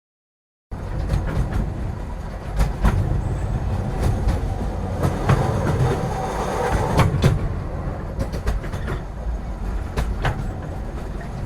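Train running on rails: a steady low rumble with frequent sharp clacks of the wheels over the rail joints. It cuts in suddenly from dead silence less than a second in.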